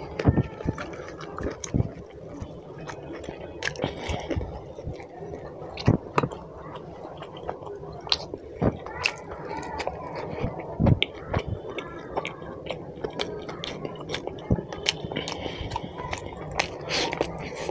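Close-miked eating: a man chews chicken curry and roti with wet smacking and mouth clicks, while his fingers squish gravy-soaked chicken and roti.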